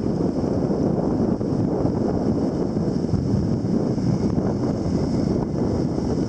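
Storm wind blowing hard across the microphone, a steady low rumble of wind noise.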